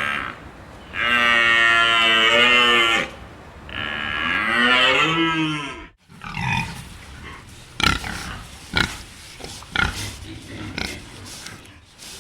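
Cattle mooing: two long calls, the second dropping in pitch at its end. After an abrupt cut about six seconds in, a run of short grunts and clicks follows.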